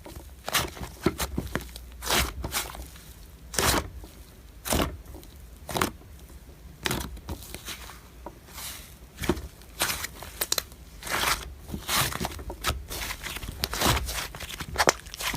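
Slime being squeezed and stretched by hand, giving irregular crackling pops and crinkly tearing sounds.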